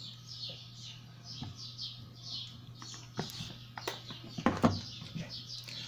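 A small bird chirping over and over in the background, a few chirps a second, over a steady low electrical hum. A few sharp knocks of handling come about three to five seconds in.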